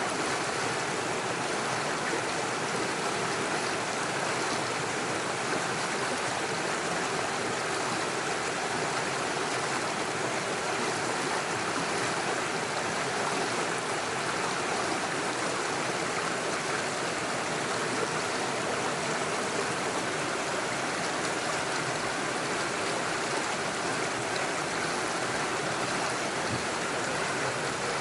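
Small forest stream running steadily over stones and little waterfalls, an even rushing and babbling of water.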